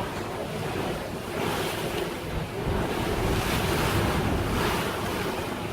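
Wind buffeting the microphone over the rush of water from a moving boat, swelling and easing every second or so.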